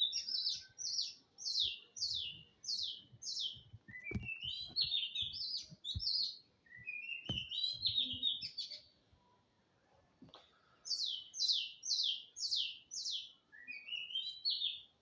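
Bird chirping in quick runs of short, high notes. Some runs step downward and others rise, with a brief pause after about nine seconds.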